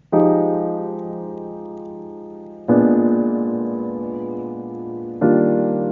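Slow background piano music: sustained chords struck about every two and a half seconds, each ringing out and slowly fading.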